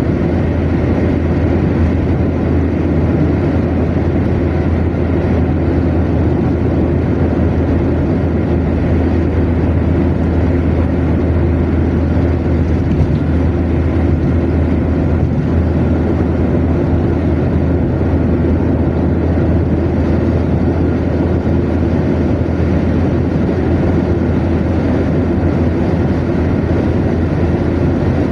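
Car cruising steadily at motorway speed: a constant road and tyre noise with a low, even engine drone underneath, with no change in pace.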